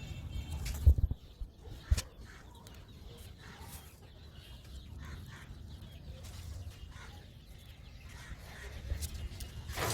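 Domestic hens clucking softly now and then, with two low thumps about one and two seconds in.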